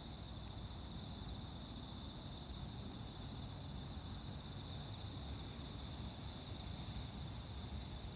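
Insects singing at dawn: a steady, continuous high trill, with a fainter, higher chirp repeating about once a second. A low rumble runs underneath.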